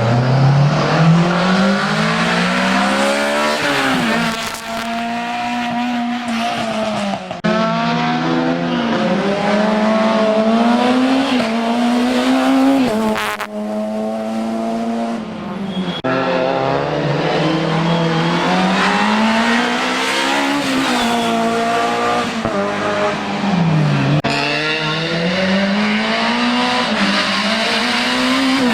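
Racing car engine at full effort, its pitch climbing and dropping back again and again as the car accelerates hard and slows between the slalom gates, with quick gear changes.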